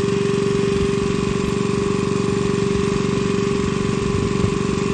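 An engine running steadily at an even speed, with a constant hum and a fast, even pulse.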